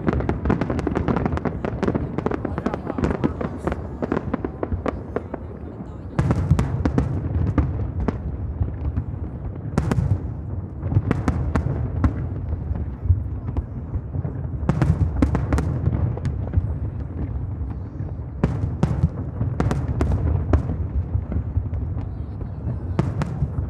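Fireworks display: a dense, continuous run of shell bursts, bangs and crackling over a deep rumble of booms, swelling into louder volleys about six seconds in, around fifteen seconds and again near nineteen seconds.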